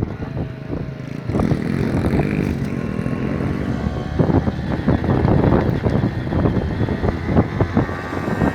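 Small motorcycle engine running and being revved, its pitch rising and falling.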